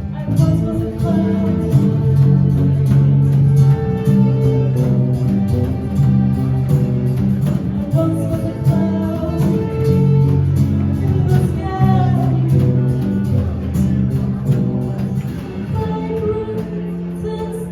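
Live band music, an instrumental passage with guitar and a steady run of plucked notes.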